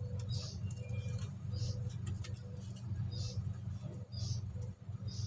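A small bird chirping, short high chirps about once a second, over a steady low hum.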